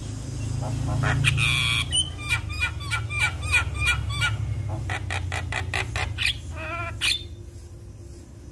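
Javan myna singing: a rapid, varied string of harsh squawks, clicks and short whistled notes that thins out after about seven seconds, over a steady low hum.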